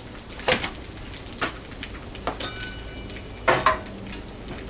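Breaded chicken strips sizzling in oil on a hot Blackstone flat-top griddle as they brown, a steady hiss with a few sharp crackles.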